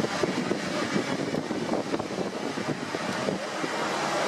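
Van driving slowly over a rough mountain road: steady engine and road noise with frequent small knocks and rattles.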